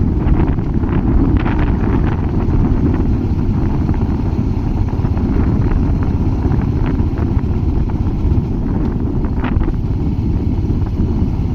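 Royal Enfield Hunter 350's single-cylinder engine and exhaust running steadily, its sound sitting low and even, with some wind noise on the microphone.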